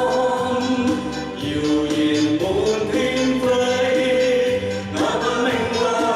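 A group of amateur singers singing a nostalgic pop song together, holding long notes over instrumental accompaniment.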